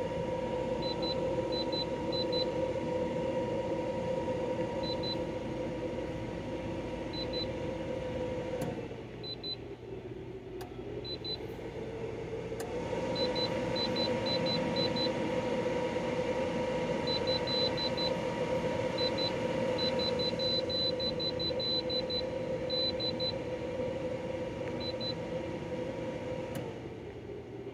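De'Longhi Pinguino portable air conditioner running on full blast, a steady droning hum. About nine seconds in the hum drops and sags in pitch, then rises back a few seconds later, and drops again near the end.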